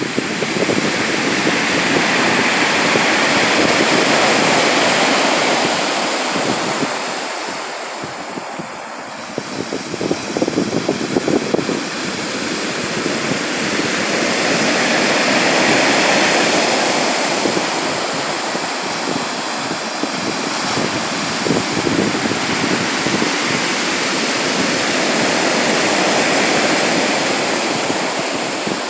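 Sea waves breaking and washing ashore in slow surges about every ten to twelve seconds, each swelling and then fading.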